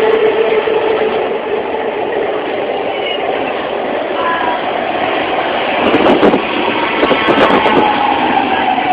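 A BART rapid-transit train running on the rails with a steady rumble. A high whine slowly falls in pitch through the second half. A burst of clattering comes about six seconds in.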